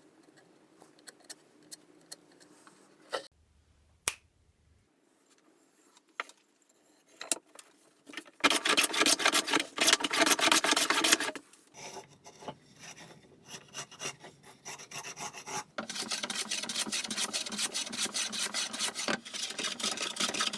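Handsaw cutting through a wooden board in quick back-and-forth strokes: a short burst of sawing about eight seconds in, then steady sawing from about sixteen seconds on, after a few light knocks of the wood being handled.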